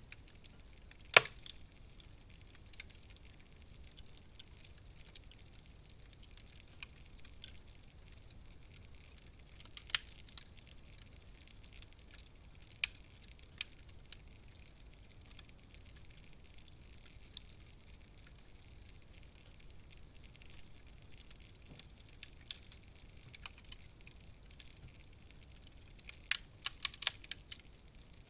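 Wood fire crackling in a fireplace: scattered sharp pops and snaps over a faint low hiss, the loudest pop about a second in and a quick run of pops near the end.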